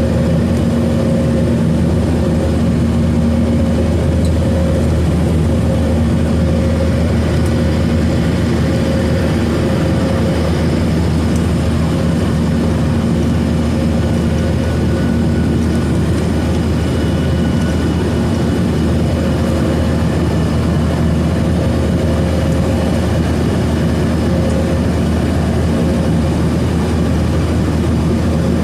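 Inside the cabin of a Boeing 737-900ER: its CFM56-7B turbofan engines run steadily under a dense rush of air noise. A droning engine hum fades and returns over the noise.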